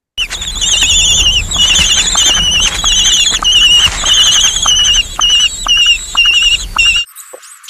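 Recorded birdsong: fast, wavering high-pitched warbling phrases repeated over and over, cutting off abruptly about seven seconds in.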